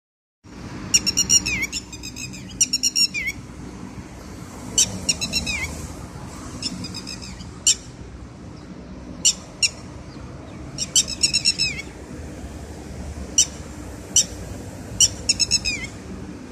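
A bird calling repeatedly and loudly: high-pitched clusters of rapid notes, several ending in a downward slur, alternating with single sharp calls every second or two. A faint low hum runs underneath.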